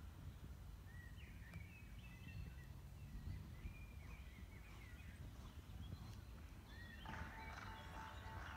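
Faint outdoor ambience of small birds chirping over a low wind rumble; about seven seconds in, music starts playing.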